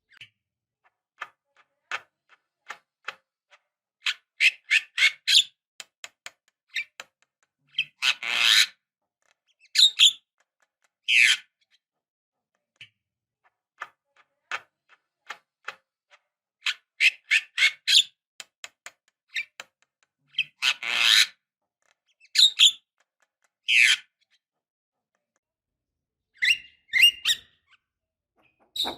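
Javan myna (jalak kebo) calling in bursts: runs of rapid clicking notes, harsh rasping squawks and short sharp whistled notes, with silent pauses between them.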